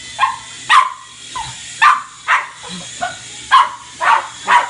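Dog barking repeatedly, about eight short, sharp barks at uneven intervals.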